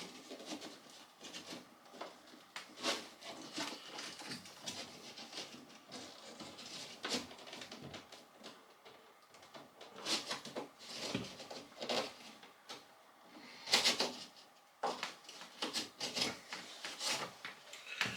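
Irregular rustling, scraping and light knocks of cable and tools being handled against wooden fittings while wiring is worked on by hand. The sharpest knock comes about two-thirds of the way through.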